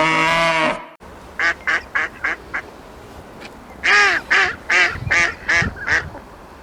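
The end of a cow's moo, cut off just under a second in, then a duck quacking: a run of five quick quacks, then a louder run of six.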